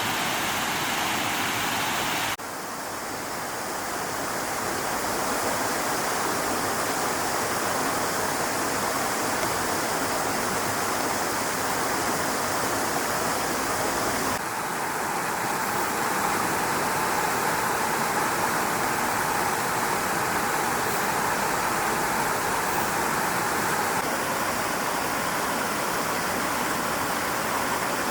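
Stream water flowing steadily, a continuous rushing noise whose character changes abruptly about two seconds in and again about halfway through.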